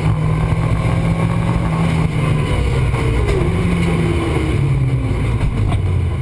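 Ford Escort RS Cosworth's turbocharged four-cylinder engine driving under way, heard from inside the stripped rally cabin. It is a steady, loud, low drone whose pitch dips slightly about halfway through.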